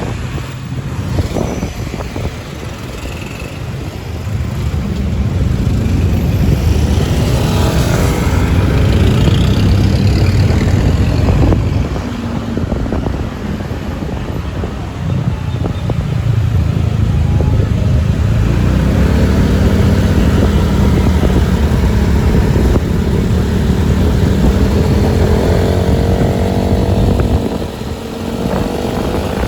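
Motorcycle riding through city traffic: a heavy low engine and road rumble that swells for long stretches, with engine tones rising and falling in the second half.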